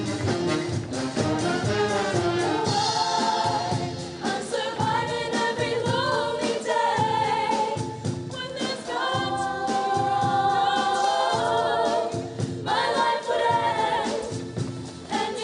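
Show choir singing together in held, multi-part notes over instrumental accompaniment with a steady beat.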